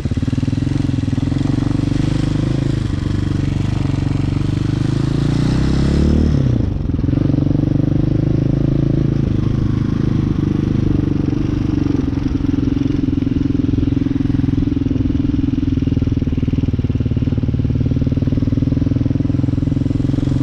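Hawk 250 dirt bike's single-cylinder four-stroke engine running while riding. The engine note falls about six seconds in, then holds steady.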